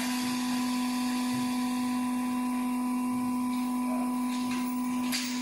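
A machine's motor running with a steady, even hum, with a brief click near the end.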